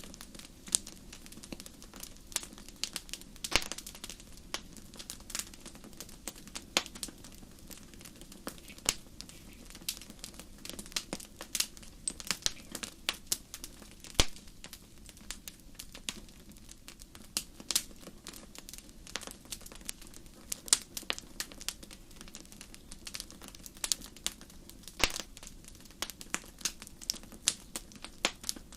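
Crackling campfire: irregular sharp pops and snaps of burning wood, several a second, over a steady low hum of the fire.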